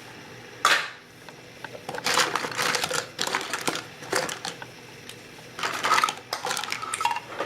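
Small hard objects handled and set down: several bursts of clicking and clattering, loudest just under a second in, with longer rattly runs in the middle and near the end.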